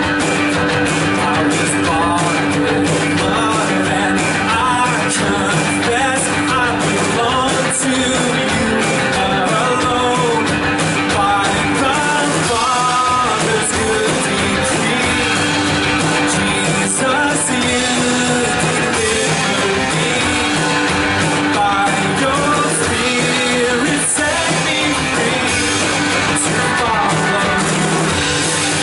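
Live church worship band playing a continuous instrumental passage, with some singing over it.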